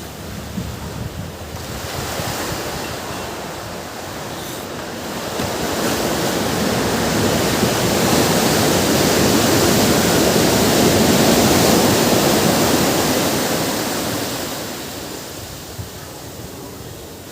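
Ocean surf: a wave builds, breaks and washes in, swelling to its loudest about halfway through and fading away near the end.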